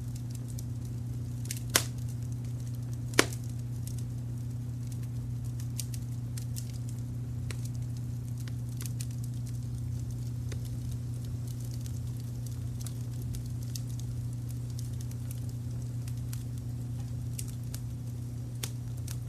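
Wood fire crackling, with scattered small snaps and two loud sharp pops about two and three seconds in. Underneath runs a steady low brown-noise hum.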